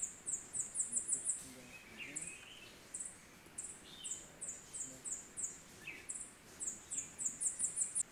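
Birds calling in forest: runs of short, very high-pitched notes, several a second and quickening within each run, with a lower chirp now and then.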